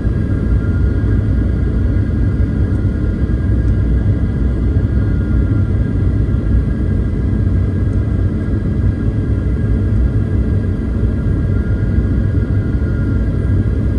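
Cabin noise inside a Boeing 737-900 airliner: a steady low rumble of engines and airflow, with a faint steady whine from the jet engines running over it.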